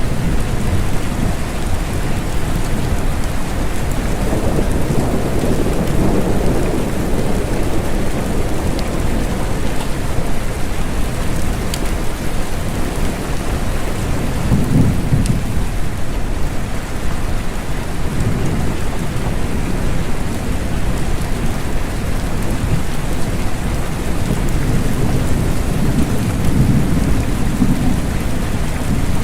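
Steady rain, with low rumbles of thunder swelling up several times.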